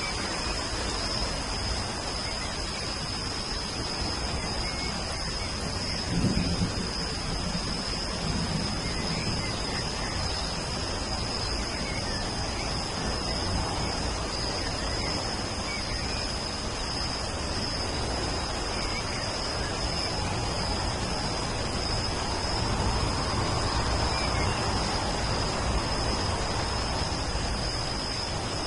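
Steady rain, with a low rumble of thunder about six seconds in and the rain swelling louder towards the end. A constant high-pitched hum sits above the rain, with faint bird chirps here and there.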